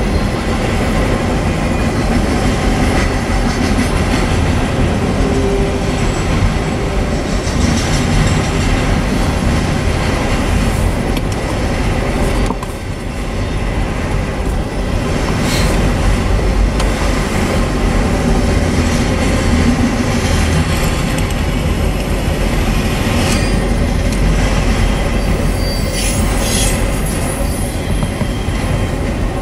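Autorack freight cars rolling past: a steady rumble of steel wheels on rail, with brief high wheel squeals about halfway through and again near the end.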